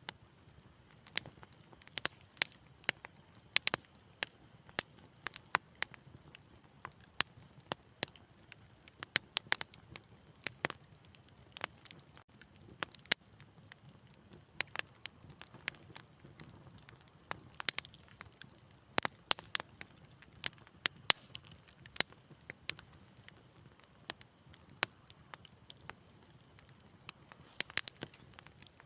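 Wood fire crackling in a fireplace: irregular sharp pops and snaps, several a second in places, over a faint low rush of burning.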